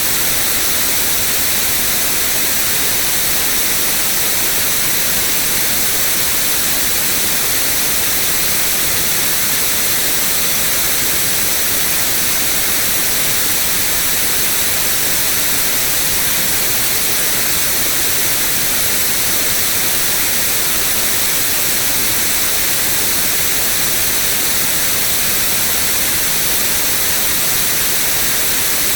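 Generated white noise: a steady, even hiss, sharpest in the treble.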